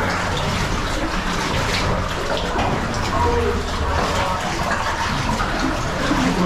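Water splashing and sloshing continuously as people wade or swim through a flooded cave passage.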